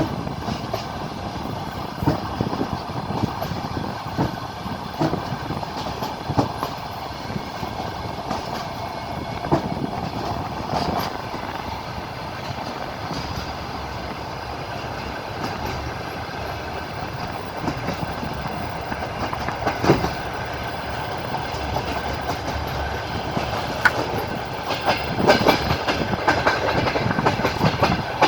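Passenger train heard from aboard a carriage: a steady rolling rumble of the wheels on the rails, with irregular clacks over the rail joints and a quicker run of clacks near the end.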